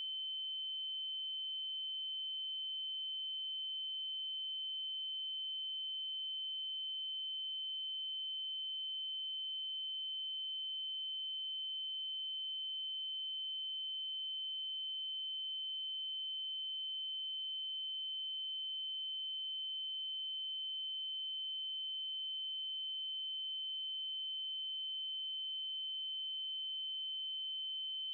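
A steady synthesized 3072 Hz triangle-wave tone, one unbroken high-pitched pitch with faint overtones above it.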